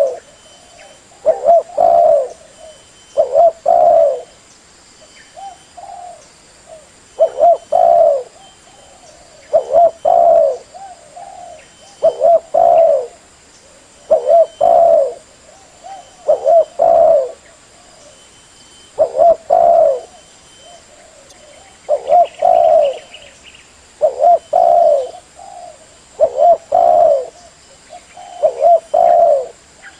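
Spotted dove cooing: a short phrase of a few low coos repeated about every two seconds.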